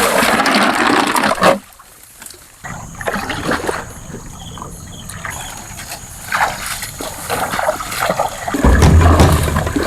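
Water splashing and dribbling as a fishing net is hauled in, with a sudden brief quiet spell about a second and a half in. Background music comes in near the end.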